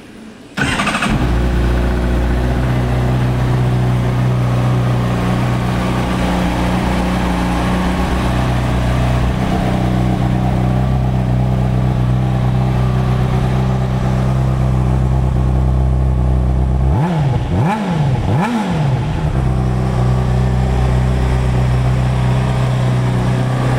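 2009 Honda CBR600RR's inline-four engine, breathing through its stock undertail exhaust, cranked briefly on the starter and catching within about a second, then idling steadily. A little past halfway it is revved twice with quick throttle blips before dropping back to idle.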